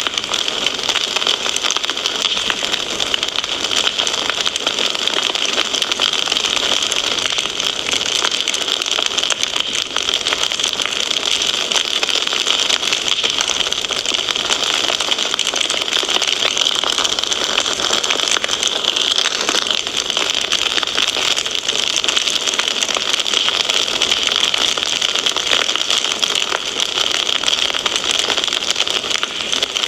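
Wood fire in a fireplace crackling steadily: a dense run of small crackles and pops over a constant hiss.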